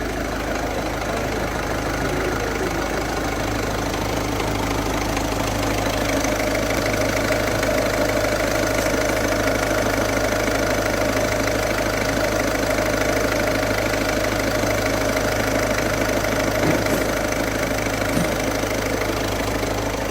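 Car engine running with a damaged, hardened auxiliary (accessory) belt slipping on its pulleys and making a steady noise; the belt is worn and has hardened. The noise grows a little louder about six seconds in.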